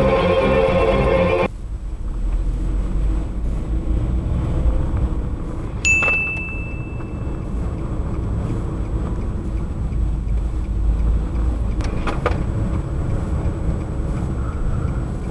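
Background music stops abruptly about a second and a half in, giving way to the steady low rumble of a car driving, heard from inside the cabin. About six seconds in there is a sharp click with a short high ping, and near the end two brief clicks.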